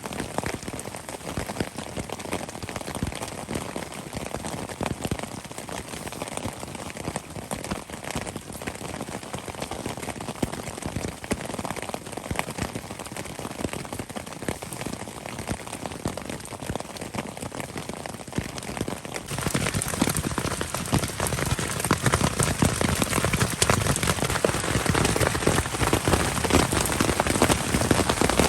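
Heavy rain pattering densely on tent fabric, a steady patter of countless drops that grows louder and heavier about two-thirds of the way through.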